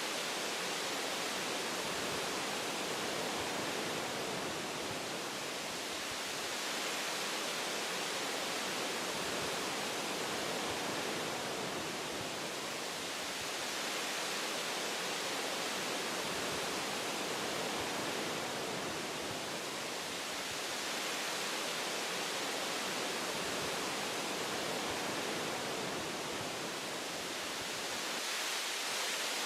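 Wind blowing through tree branches, a steady rushing hiss that swells and eases gently every few seconds.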